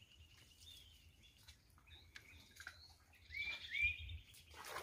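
Birds calling in a forest: a steady high trill that fades out about a second in, then scattered chirps and two quick curved whistled notes about three and a half seconds in. A short noisy rush comes near the end.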